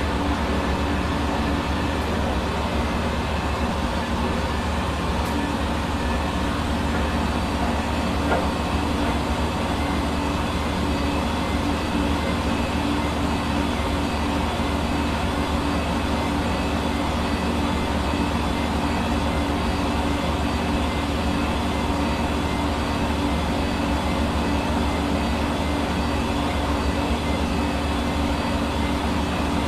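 Hair dryer running steadily: a constant rush of air over an even motor hum with several steady tones.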